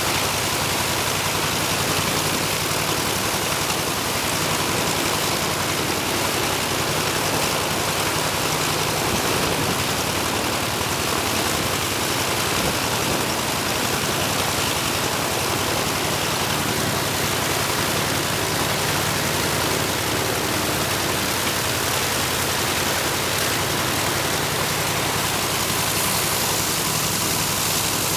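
Nakajima Sakae 21 fourteen-cylinder radial engine of a Zero fighter running steadily on the ground, a dense unbroken engine and propeller noise.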